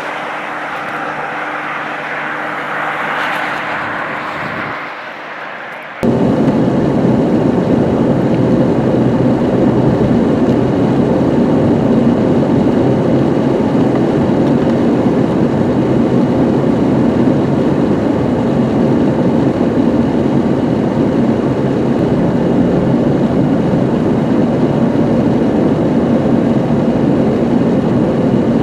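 A vehicle on the road heard from inside: a quieter steady hum with a hiss, then an abrupt cut about six seconds in to loud, steady road and engine noise.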